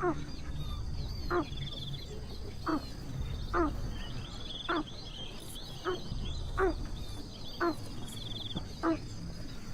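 An animal call repeated about once a second, each one a quick steep drop in pitch, over high bird trills in the background.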